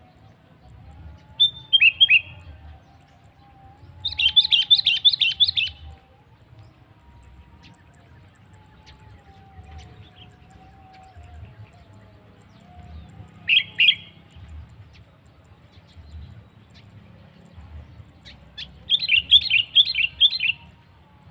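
Sooty-headed bulbul (cucak kutilang) singing: four short phrases of rapid notes, several seconds apart.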